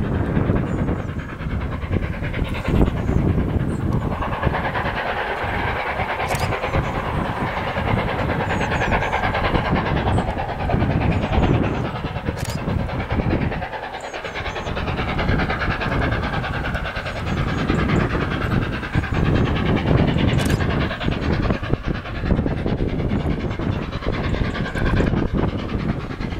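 Three-cylinder Peppercorn A1 Pacific steam locomotive 60163 Tornado working a train: steam and exhaust noise with its wheels running on the rails, continuous and loud, with a few sharp clicks along the way.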